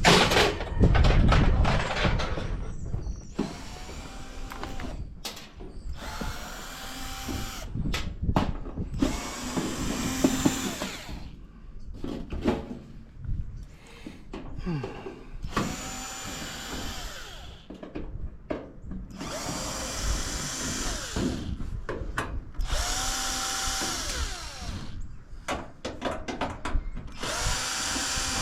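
Power drill-driver backing screws out of appliance sheet metal, run in about seven short bursts that each spin up and wind down. Sharp metallic knocks and clatter come between the runs, loudest in the first couple of seconds.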